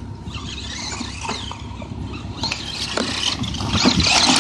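Electric RC monster truck's brushed motor and gears whining as it drives through mud, with scattered clicks, growing louder toward the end.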